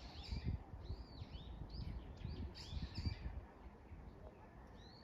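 Songbird singing: a quick series of high, arching, falling chirps, fading out after about three seconds. A few low thuds sound under it.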